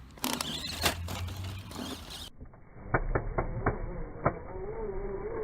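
Tamiya Monster Beetle RC car: a short whir of its electric motor and gearbox with clicks, then a run of five or six sharp clacks.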